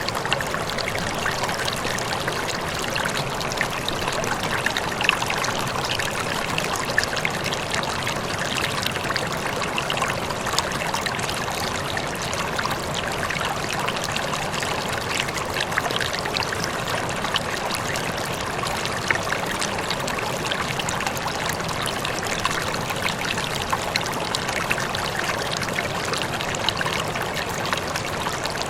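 Running water: a steady, even rush of flowing water with many small splashes.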